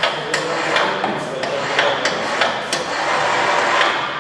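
Repeated sharp knocks, about three a second, over steady background noise, typical of hammering.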